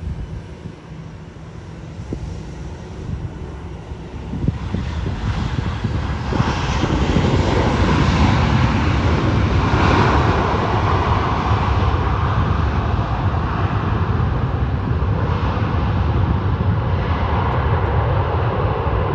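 Airliner's engines, growing louder about four to six seconds in as the plane nears, then a loud, steady rumble.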